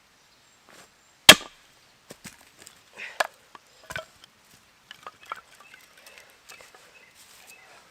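Splitting small pieces of dry, seasoned ash firewood with a chopping tool. One sharp, loud strike comes about a second in, followed by two lighter knocks and then scattered small clicks and clatter of wood pieces.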